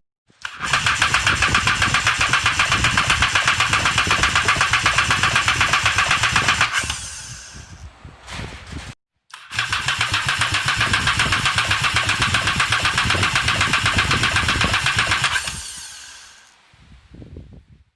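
Sea-Doo 4-TEC three-cylinder four-stroke engine being turned over on its starter in two runs of about six seconds each, with a fast, even pulse from the compression strokes; each run slows and fades as the starter is let go.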